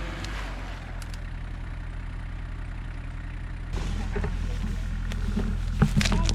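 A vehicle engine running steadily at a low idle. About two-thirds of the way in it gets louder, and a few sharp knocks come near the end.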